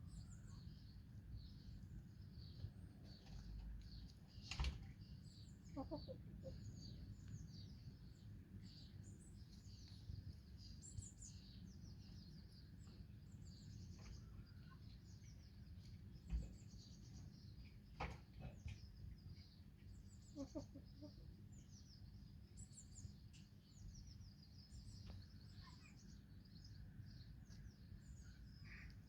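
Faint wild birdsong: many small birds chirping and twittering over a steady low background rumble, with a couple of brief runs of soft low hen clucking and a few sharp clicks.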